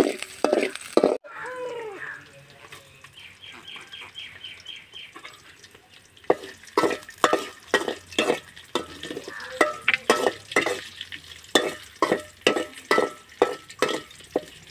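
A spoon stirring and scraping shallots and curry leaves as they fry and sizzle in a pan. After a quieter stretch, the stirring becomes steady scraping strokes about two or three a second from about six seconds in.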